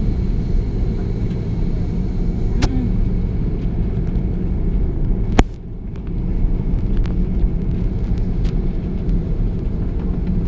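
Airliner cabin noise inside an Airbus A330: a steady low rumble from the engines and airframe, with a few sharp clicks. The loudest click comes about halfway through and is followed by a brief dip in the sound.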